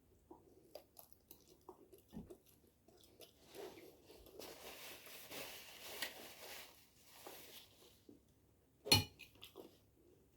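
A person eating chicken adobo close to the microphone: soft chewing through the middle, with light clicks of cutlery on a plate. Two sharper knocks come about nine seconds in.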